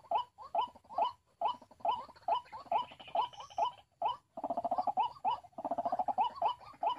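White-breasted waterhen calling: a steady series of short 'kwak' notes, about two to three a second, breaking about four seconds in into fast rattling runs of notes.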